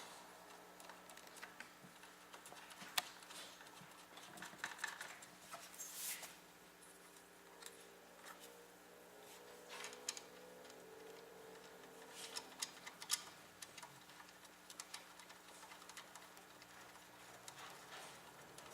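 Faint, scattered small clicks and taps of metal screws being handled and turned in while the mounting hardware for an AIO liquid cooler goes onto a motherboard. A low steady hum runs underneath.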